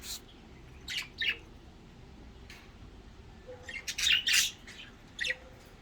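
Pet budgerigar giving short, scattered chirps and squawks, with a quick cluster of calls about four seconds in.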